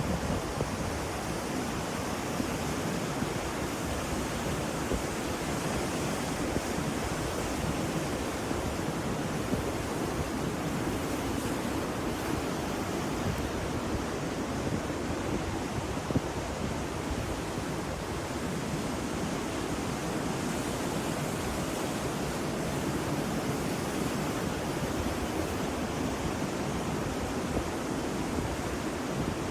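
Ocean surf: a steady, even wash of waves with no distinct breaks.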